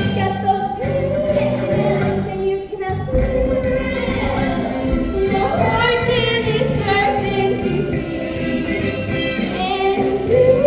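Musical theatre number: singers with a chorus sing held, wavering notes over instrumental accompaniment.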